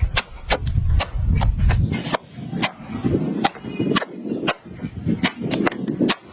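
Knife chopping by hand on a cutting board: a quick, uneven series of sharp chops, about two or three a second.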